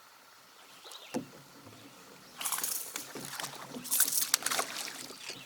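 Water splashing and sloshing around a kayak in loud, irregular bursts from about two and a half seconds in. Before that there is a single knock about a second in.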